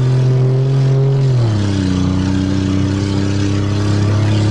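Car engine running steadily while driving, its pitch stepping down about a second and a half in and then holding at the lower note.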